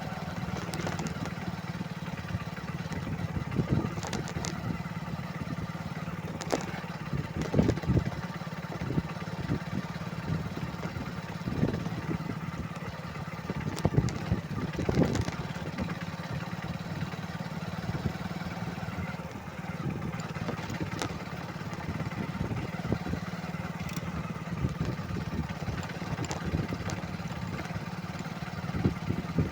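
Motorcycle engine running at a steady speed, with scattered short knocks and thumps.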